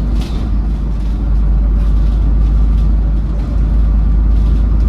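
Double-decker bus engine running under way, heard from inside the bus as a steady low rumble.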